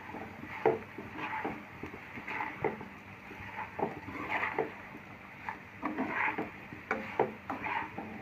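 A cooking spoon stirring fried potato pieces in a frying pan: irregular scraping and knocking strokes against the pan as the salt is mixed in.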